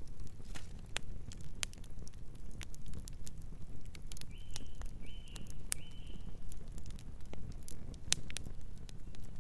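Wood fire crackling, with irregular sharp pops and snaps over a low steady rumble of burning. About four seconds in, a distant bird gives three short calls in quick succession.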